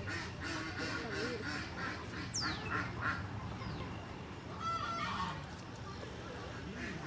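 Geese and ducks calling, a run of honks and quacks that thins out after about three seconds. A thin whistle falls in pitch about two seconds in.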